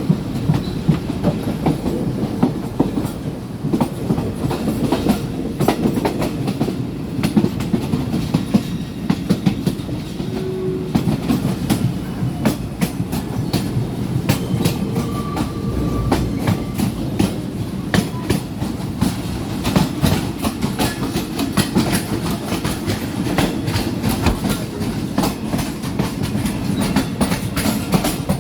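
Passenger train running along the track, a steady low rumble with the wheels clattering over the rail joints in many sharp clicks. The clicks come more thickly in the second half.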